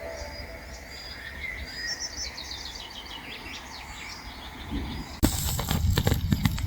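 Small birds chirping with short repeated calls over a faint outdoor background. About five seconds in, a sudden louder low rumble with sharp clicks sets in.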